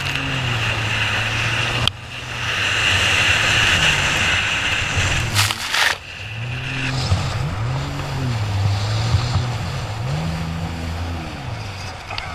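Jet ski engine revving up and down again and again, over a loud rush of water and wind noise. The sound changes abruptly about 2 seconds in and again about 6 seconds in.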